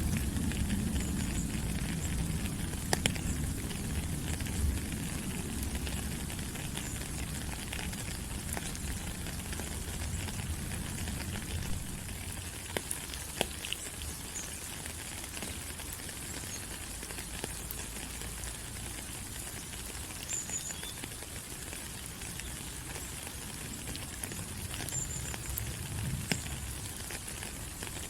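Steady rain falling on rainforest leaves, a dense even hiss with scattered sharper drip ticks. A low rumble underneath eases off over the first several seconds.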